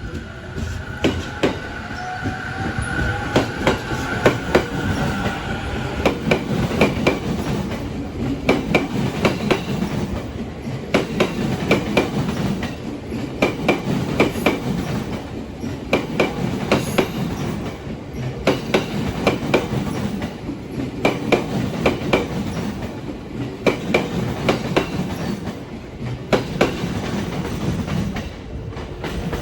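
A Sobu Line electric train passing, its wheels clacking over rail joints in repeated clusters of sharp knocks as car after car goes by, over a steady rumble. A high whine is heard in the first few seconds and then fades.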